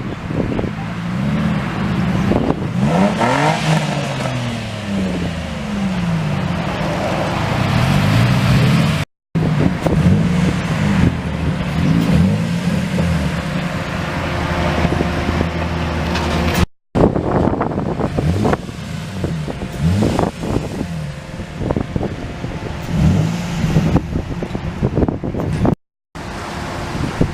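Car engines running and being revved, pitch rising and falling repeatedly, with steadier stretches between. The sound cuts out completely for a moment three times.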